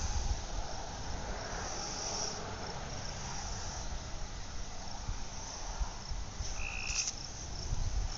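Night insects chirring steadily in high-pitched patches over a low rumble. A brief high steady tone sounds once about six and a half seconds in.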